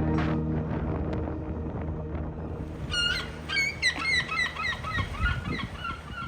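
Music fading out, then a group of birds calling with quick, repeated short calls from about halfway in.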